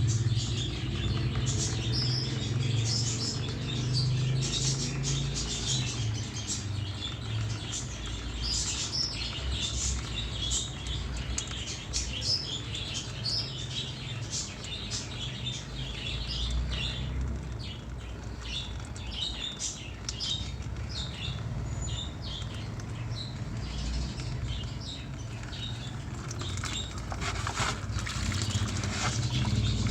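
Small birds chirping repeatedly over a low steady hum.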